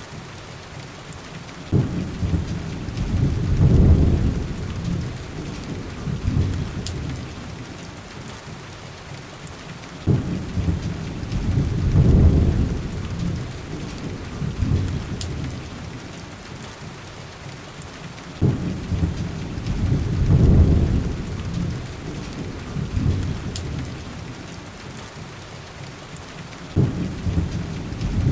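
Steady heavy rain with deep thunder rumbles that break in four times, each starting suddenly and swelling for a couple of seconds, about every eight seconds. A few faint sharp pops sound over the rain.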